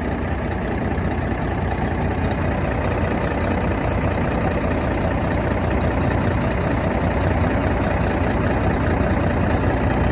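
Diesel engine of a 1995 Mack CH613 truck idling steadily, growing slightly louder toward the end.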